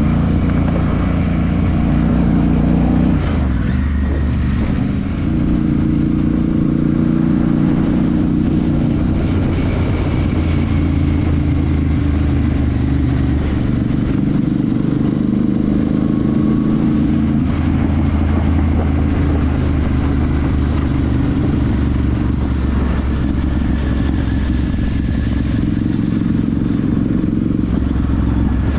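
Royal Enfield Super Meteor 650's 648 cc parallel-twin engine and exhaust running steadily under way. The engine note briefly drops and changes about four seconds in, then settles back to a steady pull.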